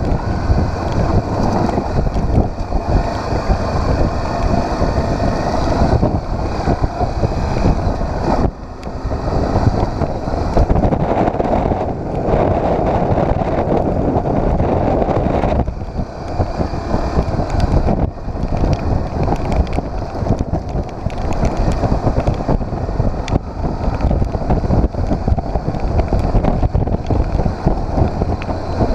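Wind rushing over the microphone of a moving motorcycle, with the engine running underneath; the level drops briefly a few times.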